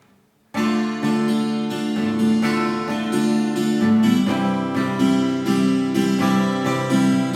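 Guitar strummed in a steady rhythm, playing open chords in A minor that change every couple of seconds, with the strings left ringing rather than muted. It starts about half a second in.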